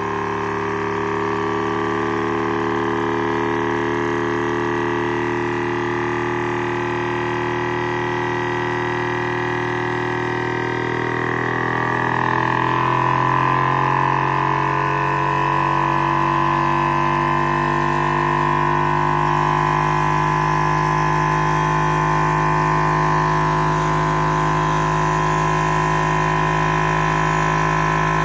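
Small high-speed Stirling engine with a thermoacoustic displacement system running, a steady droning hum made of several pitches. About twelve seconds in the pitch rises and it settles on a higher, slightly louder steady note.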